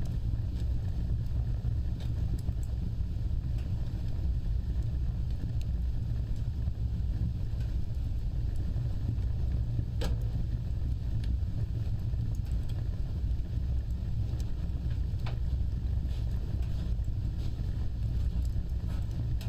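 Wood fire burning with a steady low rumble of flames and scattered crackles, one sharper pop about halfway through.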